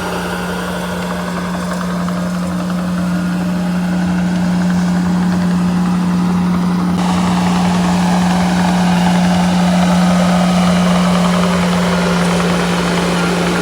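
Diesel engine of a construction machine running steadily under light load, growing somewhat louder over the first few seconds and then holding.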